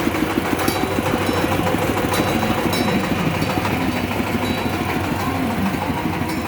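Tractor engine running steadily, with a few light rattles.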